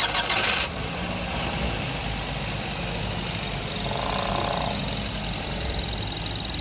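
Steady machine running, a low hum, with a short loud hiss right at the start and a faint high whistle joining about halfway through.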